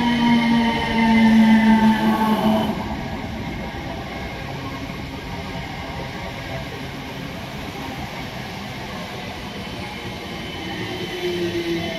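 Class 455 electric multiple unit passing at close range. A motor whine drops in pitch over the first three seconds, then steady wheel-on-rail rumble follows as the coaches roll by. A fainter whine returns near the end.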